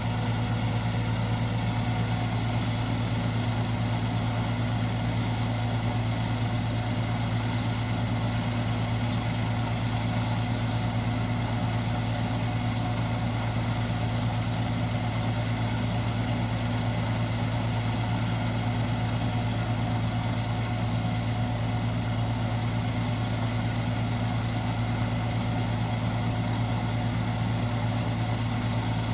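ISEKI 325 rice harvester running steadily at work: a constant engine drone with a strong low hum whose pitch does not change.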